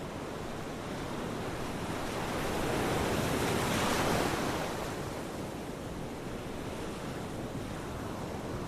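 Ocean waves: steady surf noise with one wave swelling and breaking about halfway through, then washing back down.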